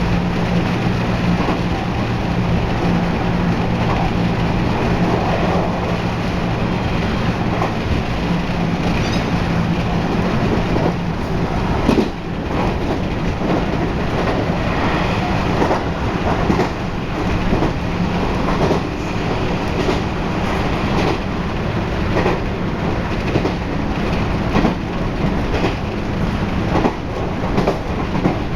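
Running sound inside a JR West 223 series 0 electric train at speed, with steady wheel and track rumble and rail-joint clacks throughout. A steady low hum is heard for about the first ten seconds, then fades.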